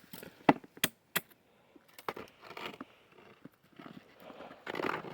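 Footsteps crunching through a thin layer of snow on frozen swamp ice, with three sharp cracks close together about half a second in, then softer crunching and rustling.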